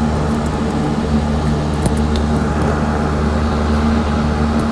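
Electric fan running with a steady hum, with a few faint clicks about two seconds in.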